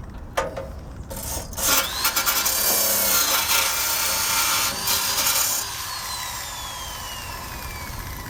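Drill-mounted wire brush scrubbing rust and paint off a Honda Cub's steel frame, its motor whine wavering under load for about four and a half seconds after a brief blip near the start. The drill is then released and its whine falls steadily as it spins down.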